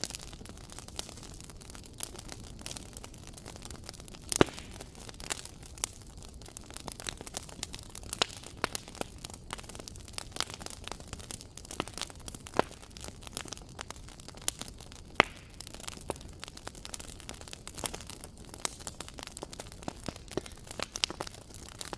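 Wood fire crackling in a fireplace: constant irregular snaps and pops over a low steady rumble of flames, with louder pops about four and fifteen seconds in.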